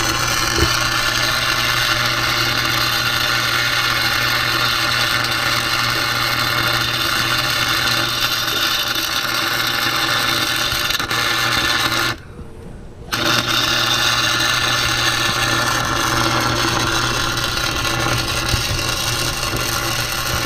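Electric arc welder running a steady crackling arc with a constant electrical hum, laying weld into a rear differential's spider gears to lock it solid. The arc stops for about a second roughly twelve seconds in, then strikes again.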